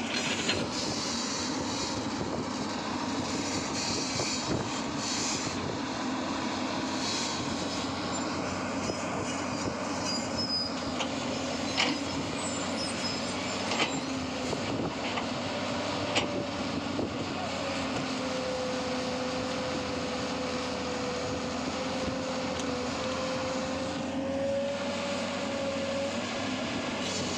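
Steady rumble of a moving vehicle, with a few sharp knocks and rattles partway through and a thin wavering whine over the second half.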